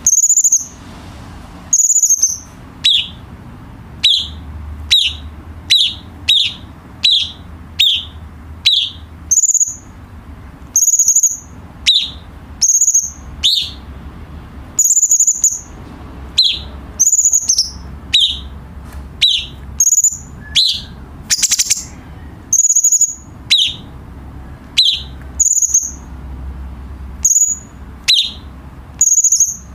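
Cucak cungkok singing: a long run of short, high whistled calls, about one or two a second, each a high note dropping to a lower one, with a quick trill about two-thirds of the way through.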